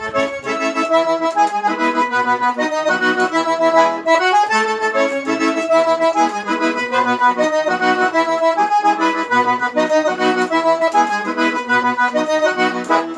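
Accordion (sanfona) playing a lively melody in chords, with its bass notes pulsing steadily underneath, as the instrumental lead-in to a song.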